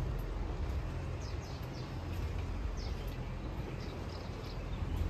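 Outdoor ambience: a steady low rumble with birds chirping, short falling calls that come several times, a few clustered between one and two seconds in and more later on.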